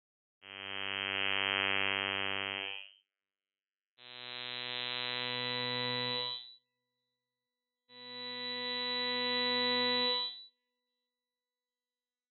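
Alchemy software synthesizer playing a sound resynthesized from an image: three sustained notes about two and a half seconds each, separated by short silences, each with a dense, buzzy stack of overtones.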